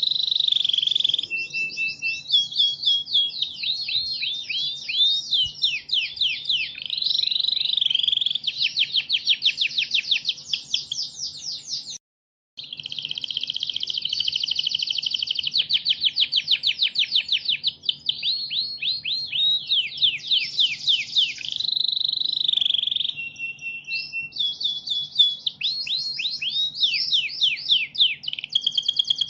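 Recorded songbird song played as a masteran training track: a continuous, high-pitched stream of fast down-sweeping chirps and rattling trills. It cuts out completely for about half a second roughly twelve seconds in, then resumes.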